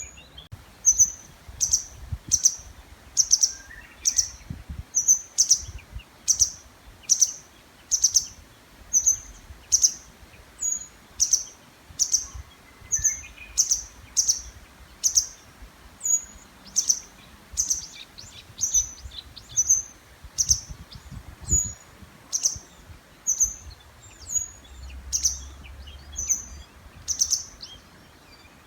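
A bird calling over and over with short, high-pitched calls, about one to two a second without a break. A fainter, lower bird call rises behind it twice.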